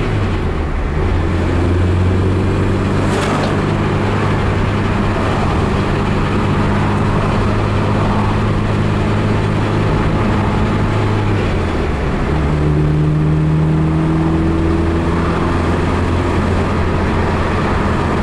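A 1972 BMW 2002's four-cylinder engine pulling the car along on a test drive, heard from inside the cabin over steady road noise. A single click comes about three seconds in. The engine note changes around eleven seconds in, then climbs slowly for a few seconds as the car accelerates.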